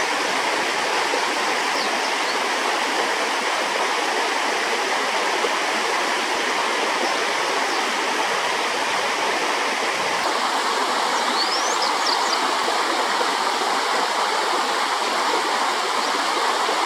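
Steady rush of flowing stream water. A few brief high chirps come through it about two seconds in and again around eleven to twelve seconds.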